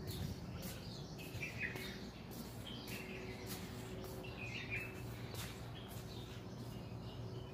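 Small birds chirping repeatedly in short calls among the trees, over a faint steady background hum.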